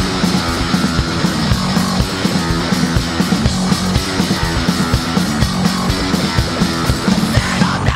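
Fast punk rock band playing: distorted electric guitars, bass and drums with a driving beat. The full band breaks off just before the end.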